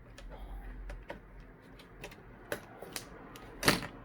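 Plastic clicks and snaps as the clips of an HP Chromebook 14's display bezel are pried loose by hand: a few scattered clicks, then the loudest snap near the end.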